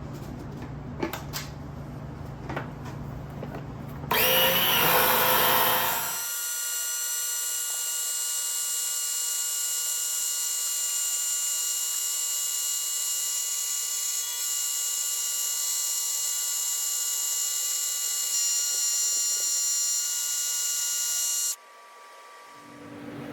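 Small 12 V electric transfer pump running with a steady high whine, pulling out transmission fluid. It starts with a loud surge of noise and cuts off suddenly near the end.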